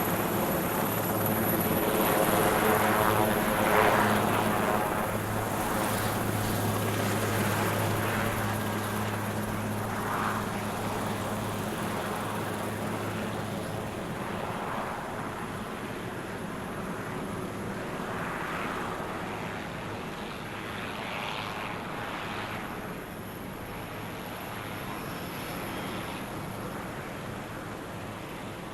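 Helicopter running, a steady low hum over rotor and engine noise that grows gradually fainter; the hum drops out about halfway through.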